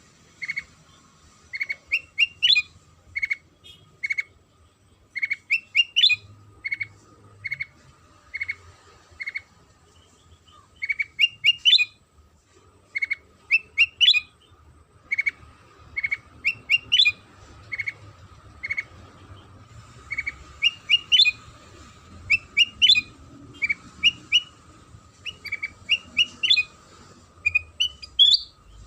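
Kutilang sutra bulbul calling over and over: short single chirps alternating with quick rising phrases of a few notes, a call every half second or so. This is a lure recording meant to set kept birds answering and singing.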